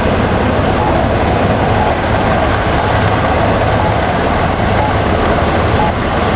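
Marine One helicopter running loudly and steadily, an unbroken engine and rotor noise.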